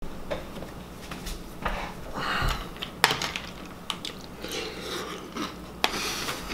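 A mouthful of Reese's Puffs cereal being chewed with a crunching sound, and a metal spoon clicking sharply against a plastic bowl twice.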